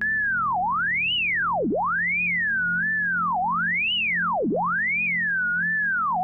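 Computer-generated pure tone from a p5.js sound oscillator, its pitch gliding smoothly up and down in a repeating pattern about every three seconds, with sharp swoops down to a low note, as a point traces around a drawn shape and its height is turned into frequency.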